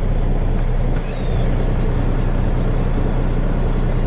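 Dump truck engine running steadily with a low hum, heard from inside the cab as the truck pulls in.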